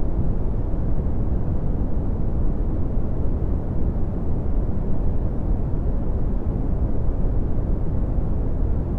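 Red (Brownian) noise: a steady, deep rumbling hiss, its power concentrated in the low frequencies and falling away steeply toward the highs, with no changes or events.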